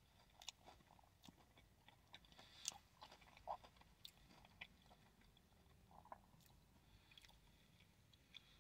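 Faint chewing of a mouthful of macaroni and cheese with chopped crispy chicken nugget and bacon pieces: soft, irregular wet clicks and smacks of the mouth, a little louder a few times around the middle.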